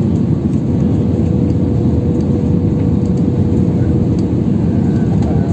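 Steady roar of a jet airliner heard from inside the cabin, engine and airflow noise with a steady hum tone running through it.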